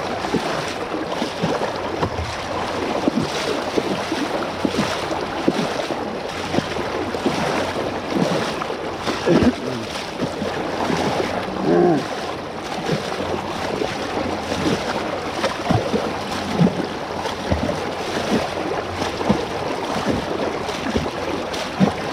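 Floodwater sloshing and splashing continuously as people wade through it pushing bikes against a current, with frequent short splashes.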